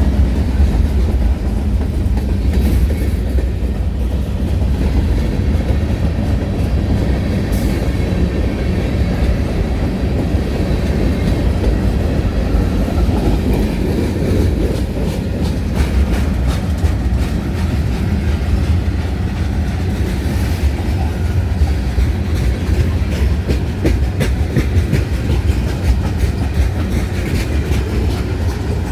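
A train rolling steadily past, a heavy low rumble of the cars with wheels clicking over the rail joints; the clicking comes thick and fast from about halfway through.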